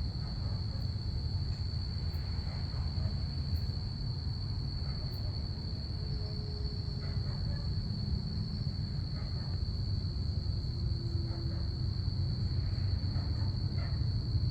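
Crickets chirping in a steady chorus, one continuous high trill, over a low, even rumble.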